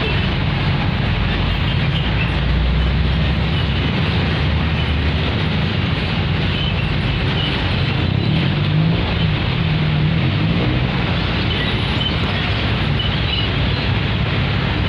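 Railway inspection train running along the track: a steady, loud rumble of the running train, with a low wavering drone about eight seconds in.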